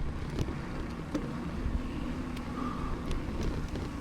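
Riding noise from a Stumpjumper 15 mountain bike: steady rumble of the tyres rolling and wind on the microphone, with scattered light clicks and rattles.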